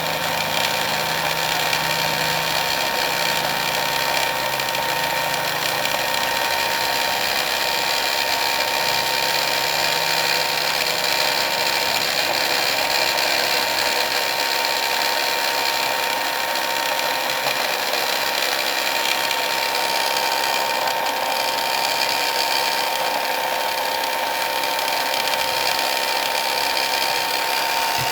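775 brushed DC motor running on a 21 V battery pack, a steady whine at one unchanging speed.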